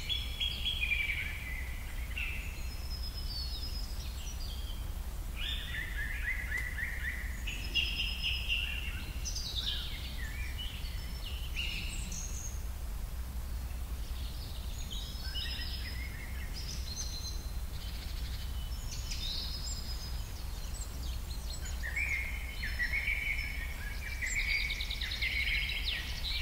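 Small birds chirping and singing in repeated bursts of quick high notes, over a steady low rumble.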